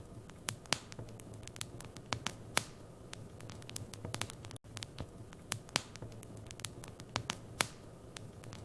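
Wood fire in a fireplace crackling, with irregular sharp pops and snaps over a steady low rumble of the flames. The sound cuts out for a split second about halfway through.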